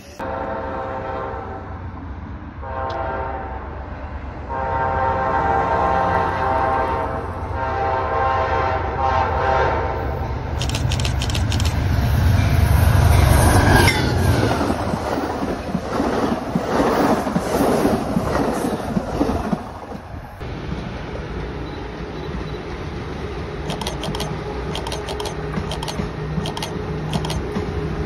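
Amtrak GE Genesis diesel locomotive sounding its horn in a series of long blasts as it approaches, then passing close with a loud engine rumble about halfway through, followed by wheels clattering over the rails. After a sudden cut, a MARC train gives a steadier hum with a few clicks near the end.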